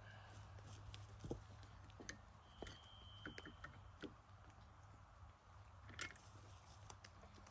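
Near silence, with a few faint scattered knocks and clicks.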